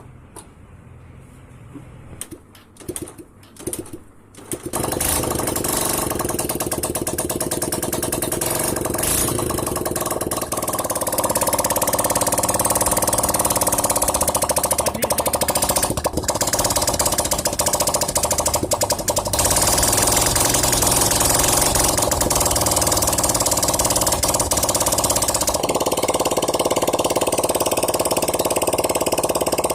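Hero Passion Pro X motorcycle's single-cylinder four-stroke engine, just rebuilt and refitted, being started for the first time: a few short cranking strokes, then it catches about five seconds in and keeps running, its speed stepping up a few times.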